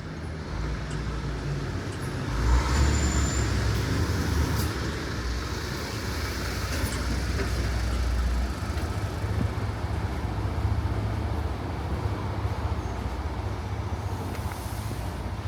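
Passing road traffic: a low engine rumble, loudest from about two and a half to eight and a half seconds in, over steady street noise.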